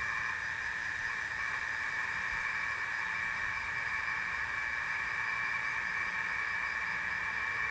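Steady, shrill night chorus of insects and frogs, unchanging throughout, with no thunder heard.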